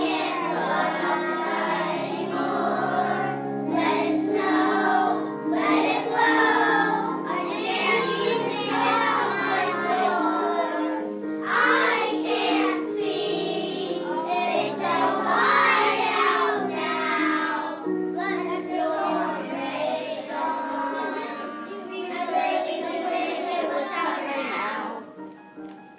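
Children singing a song with musical accompaniment, fading out near the end.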